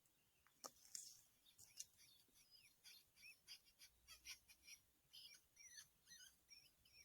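Faint, high chirping calls repeated about three or four times a second from a small animal or bird, after a few sharp clicks about a second in.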